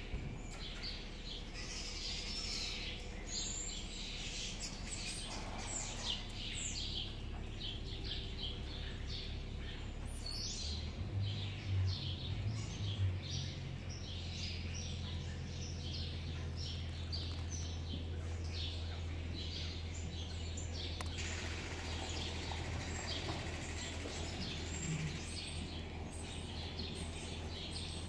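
Small birds chirping over and over in quick, short high notes. A steady low hum runs underneath and grows stronger after about ten seconds.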